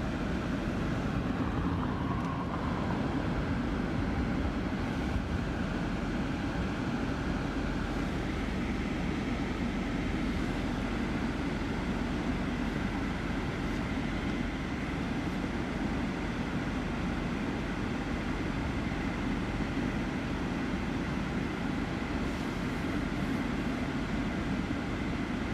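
Steady vehicle noise: a car's engine and low road rumble, even throughout, with a faint thin whine appearing about a third of the way in.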